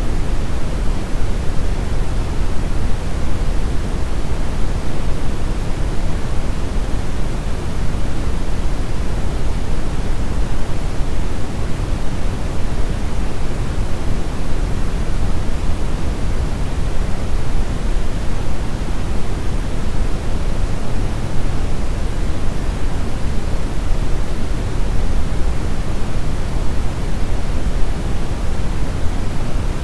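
Steady brown noise: a constant deep rushing hiss, strongest in the low end, with no changes or events.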